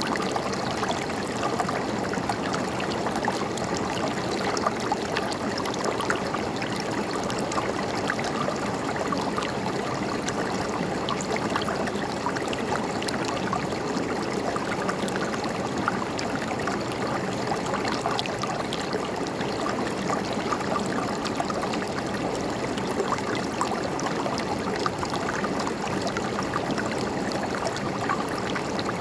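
River water flowing and gurgling over rocks: a steady rushing babble full of small splashes.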